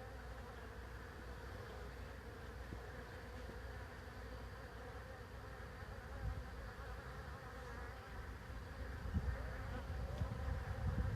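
Steady buzzing hum of a honeybee swarm that has just left its hive and is clustering on a tree limb, many bees in the air at once. A low rumble comes and goes in the last few seconds.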